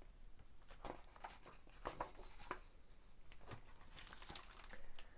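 Paper handling: the pages of a book turning, with short rustles and crinkles and light clicks.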